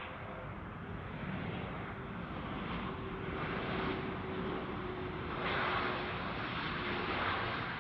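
Wide-body jet airliner on approach to land, its engines a steady rumble with a faint whine, growing louder about five and a half seconds in.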